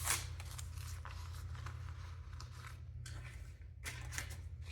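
Paper banknotes and a cash envelope being handled: soft rustling and short crisp scrapes of paper, with a steady low hum underneath.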